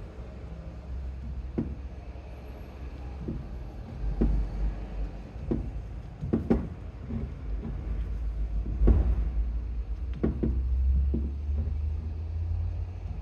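Irregular sharp knocks, roughly one a second, over a steady low rumble.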